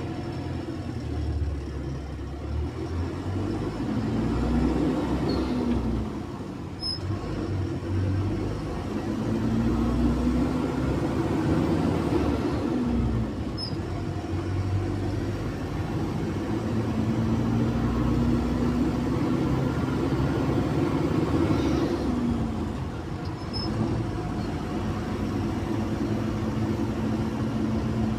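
Cummins diesel engine of a Zhongtong LCK6150D bus accelerating. Its pitch climbs and then drops back at each gear change, three times, and it runs at a steady speed near the end.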